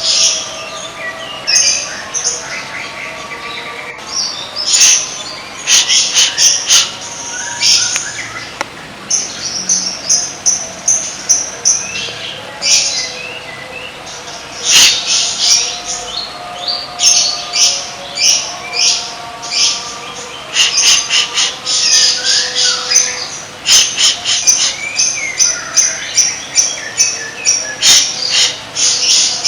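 Songbirds singing: dense runs of rapid, high chirps and trills, over longer, lower drawn-out whistled notes.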